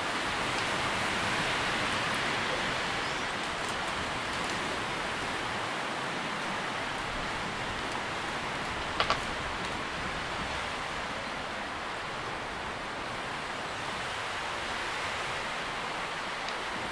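Wind rustling through tree leaves in a steady wash of noise that swells and eases gently. A sharp double click sounds about nine seconds in.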